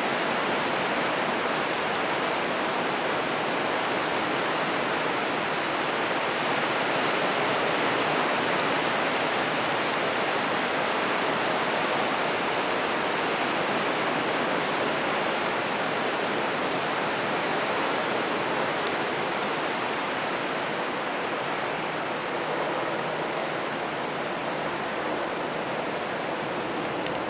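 Steady rushing wash of ocean surf, swelling and easing slightly with no beat or tone in it.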